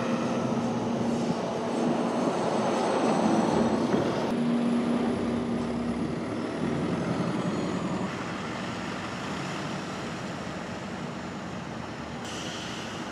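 Passenger train noise: a steady rumble with a low hum, swelling to its loudest about three to four seconds in and then easing off, the sound changing abruptly about four, eight and twelve seconds in.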